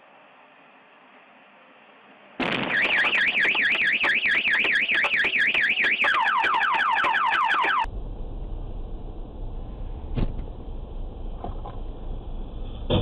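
Electronic alarm siren warbling about four times a second, switching about two-thirds of the way through to fast falling sweeps, then cutting off suddenly. After it comes the low rumble of a car on the road, with a couple of thumps.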